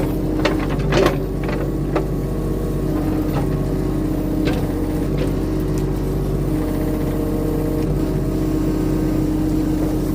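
Diesel engine of a compact earthmoving machine running steadily under load while uprooting a tree, with a few sharp knocks and cracks in the first two seconds.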